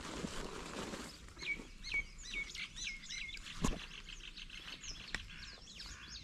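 Small birds chirping: a quick run of about six repeated chirps a second and a half in, then more scattered chirps. A single sharp knock near the middle.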